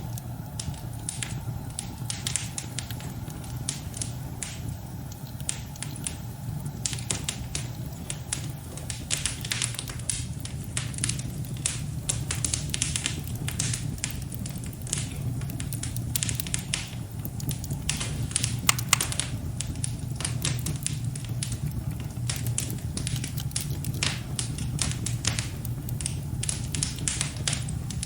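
Fire in a fireplace crackling, with many sharp pops and ticks, over a steady low rumble.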